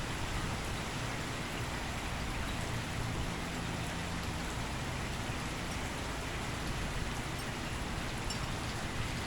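Steady rain falling hard during a thunderstorm: a continuous, even hiss of rain.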